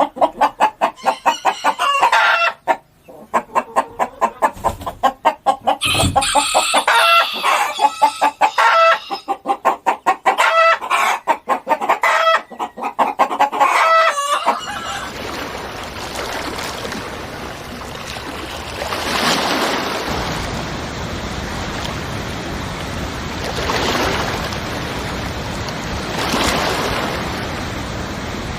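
A bird calling in rapid pulsing bursts, about ten pulses a second, for roughly the first half. Then a steady rushing noise takes over and swells a few times.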